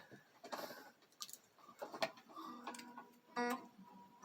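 Faint clicks and taps of an electric mandolin being handled, with a few short plucked string notes about two and a half to three and a half seconds in.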